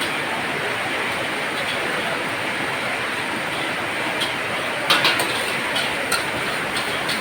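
Heavy rain falling steadily, with a few sharp taps a little after the middle.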